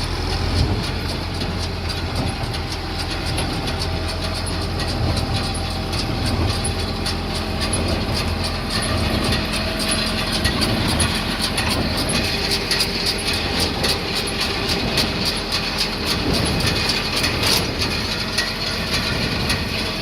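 Massey Ferguson 2150 medium square baler running, its mechanism clattering in rapid, dense clicks over a steady tractor engine hum. The clatter grows more prominent about a third of the way in.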